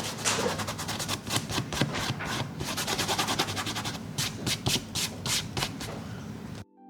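Dried masking fluid being rubbed off watercolor paper in quick repeated strokes, about three a second. The rubbing cuts off suddenly near the end.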